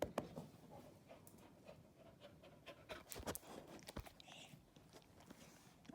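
Beagle panting faintly, mixed with scattered soft clicks.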